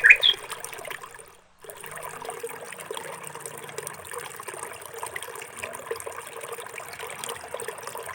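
Water trickling steadily, with a bird's chirps at the very start and a brief drop-out about a second and a half in.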